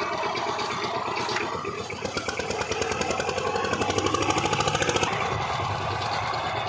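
Power tiller engine running with a fast, even pulsing beat. It speeds up and gets louder about two seconds in, then drops back about five seconds in.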